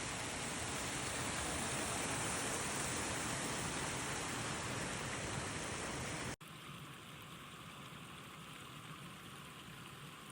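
Steady rush of flowing creek water. It cuts off abruptly about six seconds in and goes on as a quieter, thinner rush.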